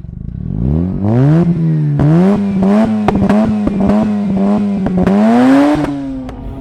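Mazda RX-8's twin-rotor rotary engine revving hard. Its pitch climbs steeply in the first second and a half, then stays high with repeated sharp pops, rises once more near the end, and eases off.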